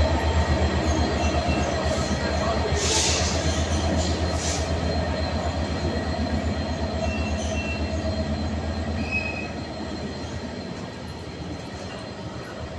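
Class 66 diesel locomotive's two-stroke V12 engine throbbing as it hauls container wagons away, the throb fading over the last few seconds as the wagons roll past with a faint high wheel squeal. A short hiss sounds about three seconds in.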